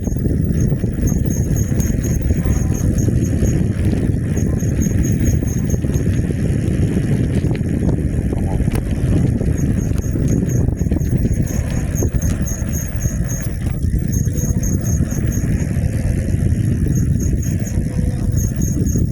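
Steady wind rumble on the microphone and road noise from a moving e-bike. A faint, rapid, high-pitched ticking comes and goes in runs of a few seconds.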